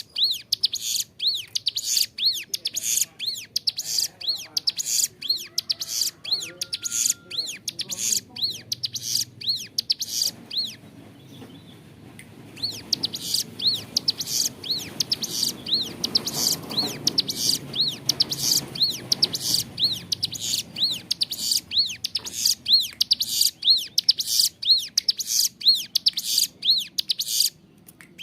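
Ciblek gunung singing a fast, repeated series of high, arching chirps, pausing for a couple of seconds about ten seconds in and then taking up the same loud chirping again.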